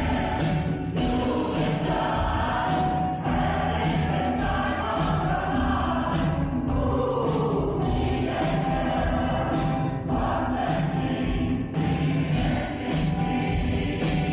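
Mixed choir singing a musical-theatre number with instrumental accompaniment, over a steady beat of jingling percussion.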